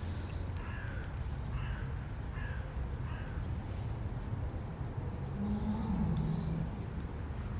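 A bird calling four or five times in quick succession, over a steady low rumble of city traffic. A low drone rises briefly in the second half.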